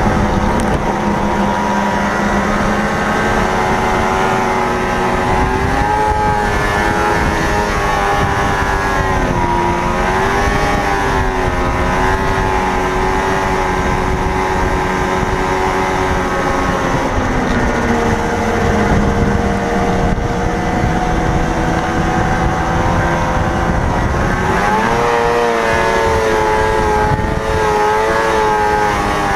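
1980 Ski-Doo Blizzard 7500 snowmobile's two-stroke engine running under way, its pitch rising and falling as the throttle is worked: it climbs about six seconds in, drops back a little past halfway, and climbs again near the end.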